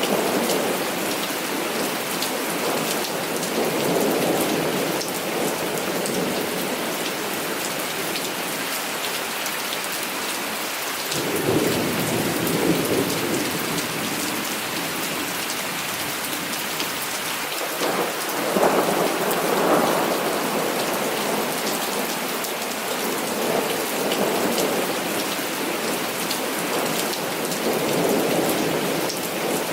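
Heavy rain falling steadily, with rolls of thunder rumbling through it: a sharp clap that starts suddenly about eleven seconds in and another, the loudest, a few seconds later, with softer rumbles before and after.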